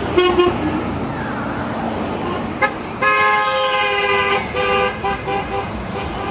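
Car horn sounding: a brief beep, then a long steady blast about three seconds in, followed by several short toots.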